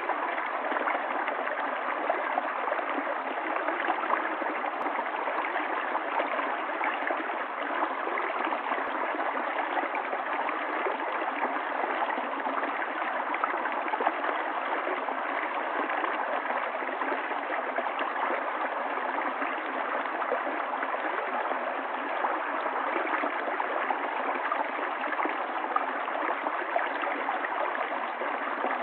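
Stream water running steadily over its bed, an even, unchanging flow.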